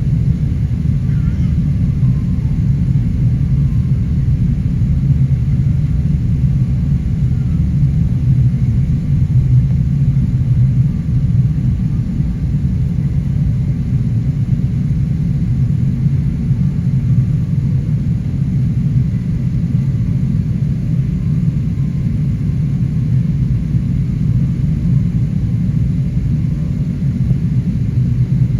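Steady low rumble of a Qantas Airbus A380 in flight or on the runway, heard as engine and airflow noise. It stays even throughout, with no rise or fall in pitch.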